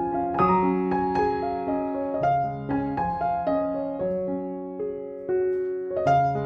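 Background piano music: a slow, gentle melody of single notes and chords.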